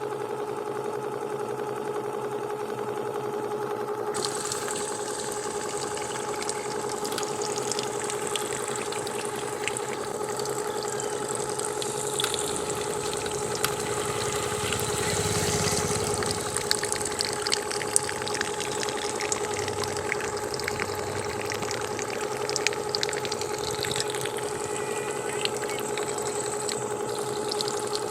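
Small electric water pump on a homemade model tractor whining steadily at one pitch. From about four seconds in, water hisses and splashes over it.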